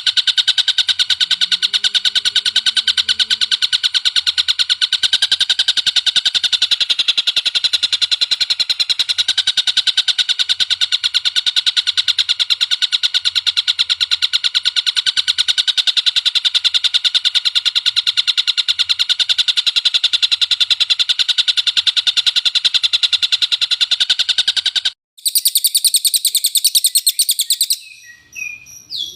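Recorded songbird song: a loud, very rapid, unbroken trill held steady for most of the stretch, then an abrupt cut to a different, higher trill, and a few separate chirps near the end.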